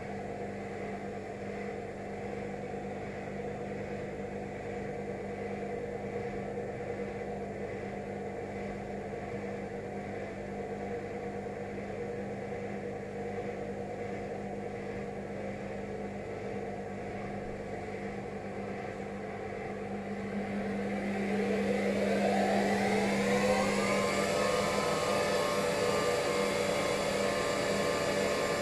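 Indesit IWSC 5085 washing machine's drum motor running steadily at low speed, then, about twenty seconds in, a rising whine as the drum speeds up into its spin, settling into a louder, steady higher-pitched spin at 600 rpm.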